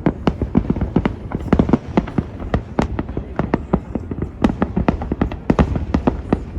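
Aerial fireworks bursting in rapid succession, several sharp reports a second, over a steady low rumble.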